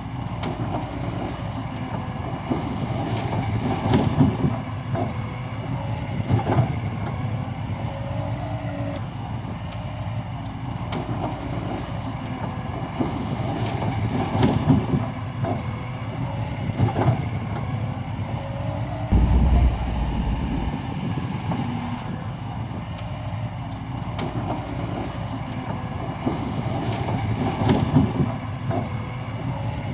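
Bulldozer's diesel engine running steadily under work, with a wavering whine and sharp metallic clanks now and then, plus a short heavy thud about two-thirds of the way through.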